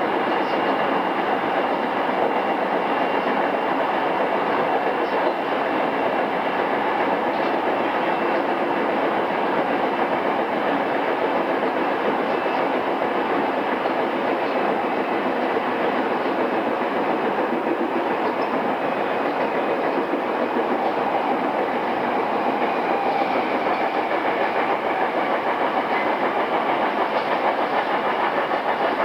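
Onboard running sound inside a JR East E217-series motor car before its refurbishment: steady wheel-on-rail noise with rail-joint clatter as the train runs between stations. The sound is dulled at the top by its cassette-tape source.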